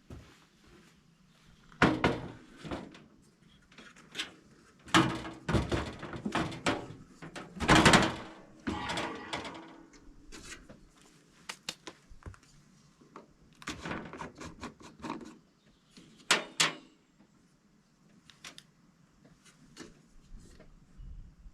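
Irregular knocks, clunks and scrapes of hard objects being handled, with louder clattering spells about two, five and eight seconds in.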